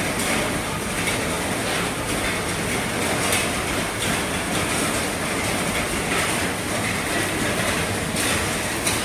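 Heavy rain falling steadily on the roof of an RV, an even hiss of drops with no break.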